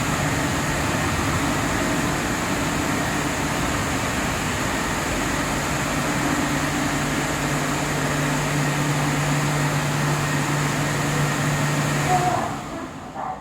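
Leisuwash 360 touchless car wash machine running: a steady hiss of spray or blown air over a constant motor hum and a high whine, which stops abruptly about twelve seconds in.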